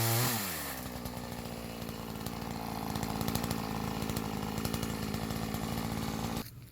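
Two-stroke chainsaw running, its pitch falling from a high rev in the first half second to a steady, lower running speed, then cutting off abruptly near the end.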